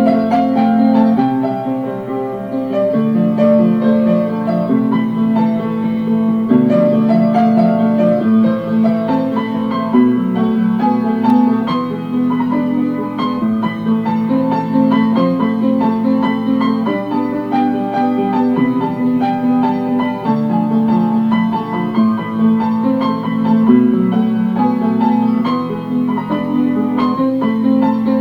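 Piano music, with a stream of struck notes over held low chords.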